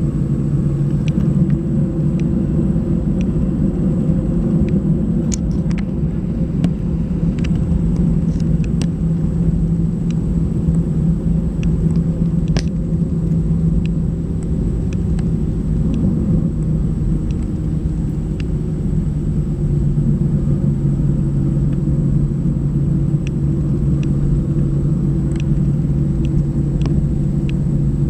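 Airliner cabin noise, heard from inside the cabin: a steady jet-engine hum over a low rumble, with scattered light clicks and rattles.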